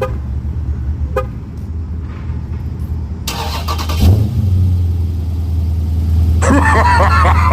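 Dodge Charger Scat Pack's 392 HEMI V8 through a new MBRP Street cat-back exhaust, firing up about four seconds in with a sharp burst and then settling into a loud, deep, steady idle.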